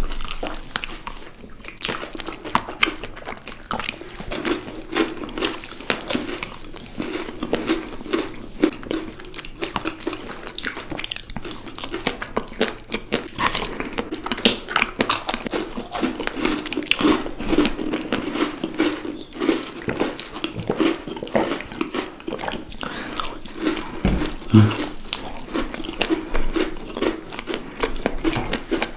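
A person biting and chewing chocolates, with many irregular crisp crunches and mouth sounds.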